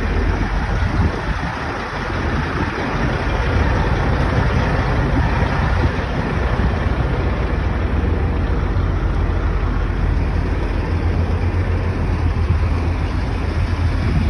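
Steady motor vehicle noise: a continuous low engine rumble with road or traffic hiss.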